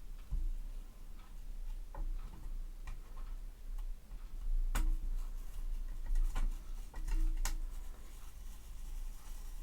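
Irregular light clicks and taps of small hard objects being handled, with a few sharper clicks in the second half, over a low steady hum.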